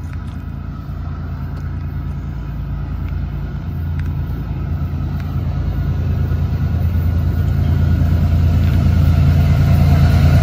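Approaching freight train's diesel locomotives: a low engine rumble that grows steadily louder as the train nears.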